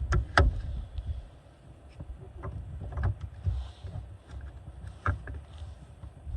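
Scattered sharp clicks and knocks with low, uneven rumbling, from hands working at a car battery's terminals while the dirty posts are cleaned before a jump start.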